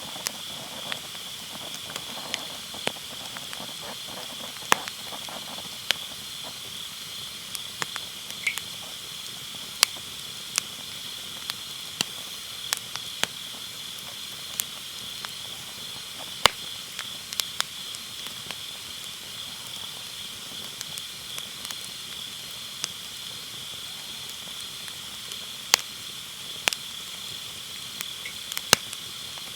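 Firewood burning and crackling, with sharp, irregular pops, over a steady high chorus of autumn night insects.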